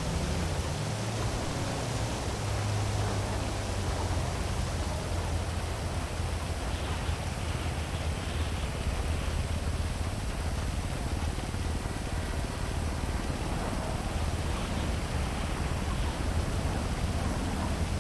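Heavy rain falling steadily over a city, an even hiss with a low rumble of city traffic underneath.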